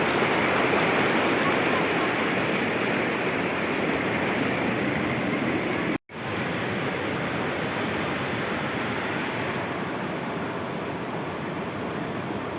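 Sea waves washing on the shore: a steady rushing surf. About six seconds in it cuts out for an instant at an edit, then carries on slightly duller.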